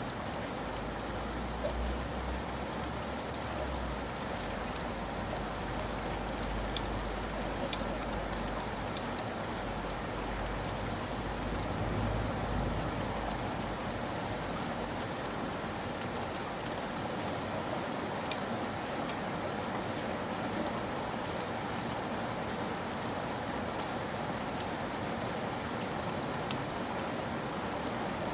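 Steady rain, with individual drops ticking through the patter. A low rumble sits underneath for roughly the first half and fades out about thirteen seconds in.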